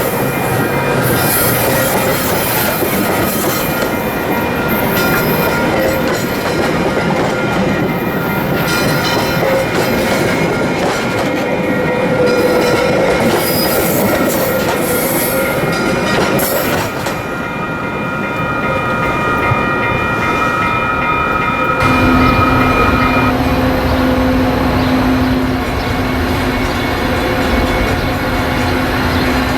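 Metra diesel push-pull commuter train moving slowly on the station tracks, steel wheels squealing with high steady tones and rumbling over the rails. About three quarters of the way through, a low steady drone comes in and the squeal stops.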